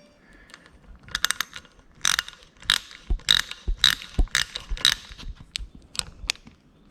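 Hand ratchet clicking in quick back-and-forth strokes, about two a second, starting about a second in, as a water pump bolt is run in.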